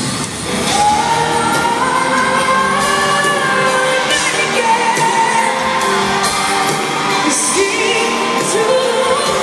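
Live pop ballad performance in a large hall: a female lead voice sings long, sliding held notes over the accompaniment, with shouts and whoops from the crowd.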